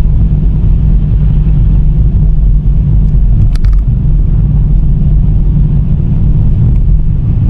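A car driving, heard from inside: a steady low road and engine rumble, with one brief sharp sound about three and a half seconds in.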